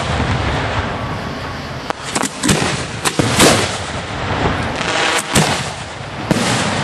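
Aerial fireworks display: many shells bursting in quick succession, sharp bangs over a continuous crackle.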